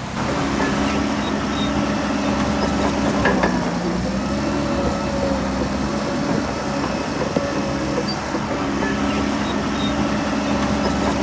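Heavy diesel engine of a Shantui DH17C3 bulldozer running steadily, its pitch dipping and recovering twice as it takes load, with a short knock a few seconds in.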